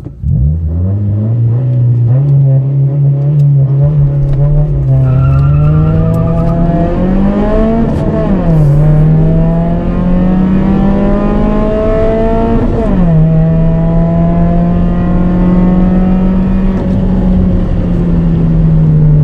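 Car four-cylinder engine under full-throttle acceleration from a standstill, its pitch climbing through the gears. It drops sharply at two upshifts, about 8 and 13 seconds in.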